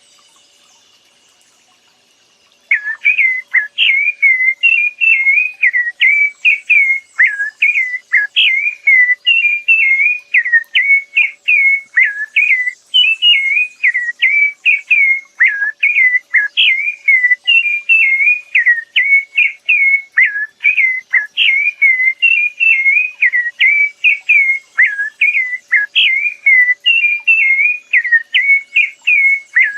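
A songbird singing a long, fast run of short, clear notes that swoop up and down in pitch, two or three a second. It starts about three seconds in, after a near-quiet pause.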